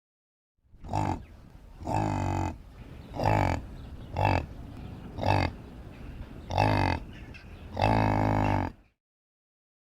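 Cow mooing: seven short, low calls spaced about a second apart, the last one the longest.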